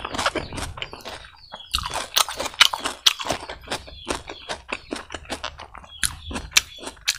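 Close-miked chewing of spicy pork belly curry with rice: a quick, dense run of mouth clicks with a brief pause about one and a half seconds in.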